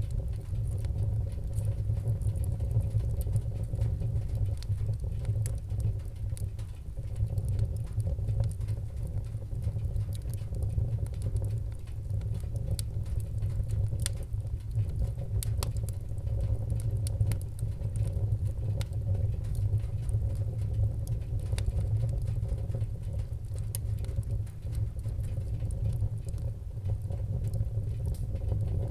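Wood fire in a fireplace burning, with a steady low rumble and many small sharp crackles and pops throughout.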